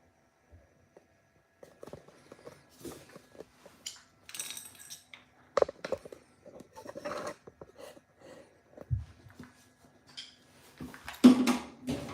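Handling noises from work on a dryer: irregular metallic clicks, scrapes and rustles of small parts and tools, with the loudest clatter just before the end.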